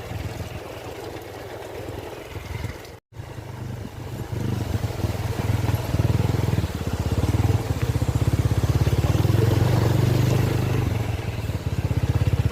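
Motorcycle engine running as the bike is ridden, with fast pulsing exhaust beats. The sound cuts out for a moment about three seconds in, and from about four seconds on the engine is louder.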